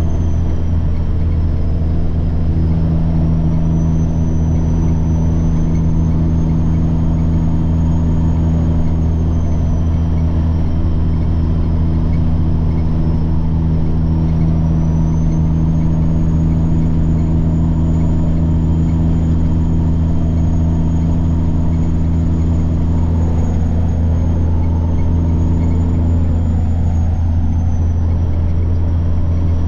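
Semi-truck diesel engine running steadily under way, with a high turbocharger whine that drifts slowly up and down in pitch.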